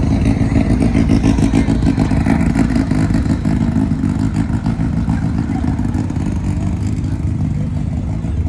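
A car engine running close by, a loud steady low rumble.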